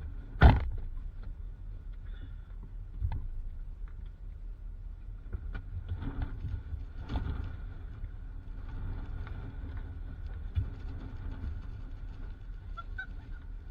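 Steady low rumble of a vehicle on the move, heard from inside. There is one sharp, loud knock about half a second in, and softer thumps about 3 and 10 seconds in.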